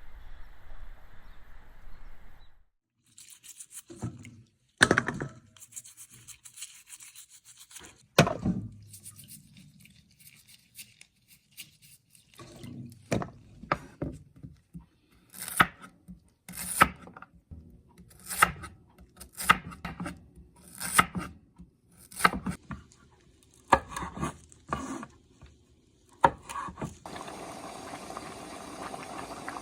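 Hands-on work with rubbing and scraping sounds, then a run of sharp knocks roughly once a second. A steady rushing noise begins near the end.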